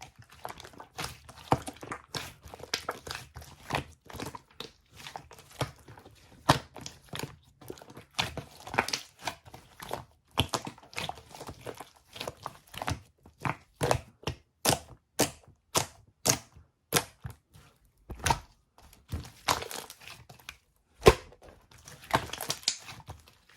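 Clear and light-green slime being squeezed and poked by hand, giving off irregular crisp clicks, pops and crackles, with a few louder snaps.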